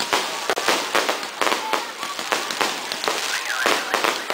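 Fireworks display going off: a rapid, irregular run of sharp bangs and crackling pops, several a second, with people's voices underneath.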